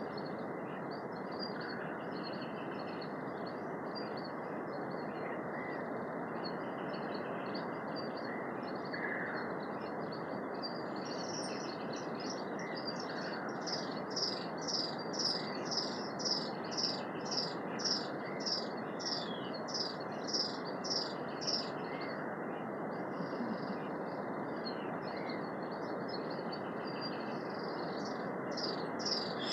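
Birds singing in forest over a steady rushing background. About ten seconds in, one bird starts repeating a high chirp about three times every two seconds, keeping it up for roughly ten seconds.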